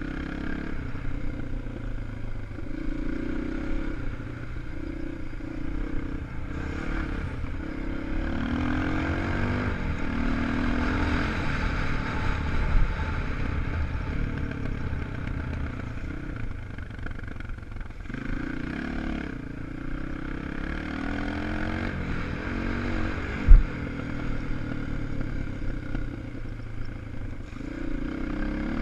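250 cc enduro motorcycle engine running under riding load, its pitch rising and falling as the throttle opens and closes and the gears change. A single sharp thump about three-quarters of the way through is the loudest moment.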